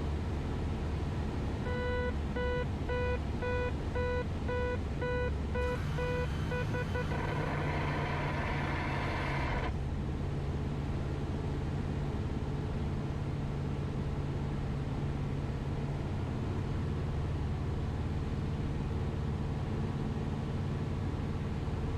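Cessna 172RG's four-cylinder engine droning steadily in the cabin. About two seconds in, a pulsed warning tone beeps about three times a second for some five seconds. A few seconds of hiss follow.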